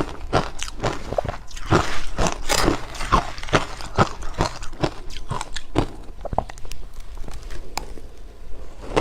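A person biting and chewing ice close to the microphone: a fast run of sharp, crisp crunches that thins out to scattered crunches over the last few seconds.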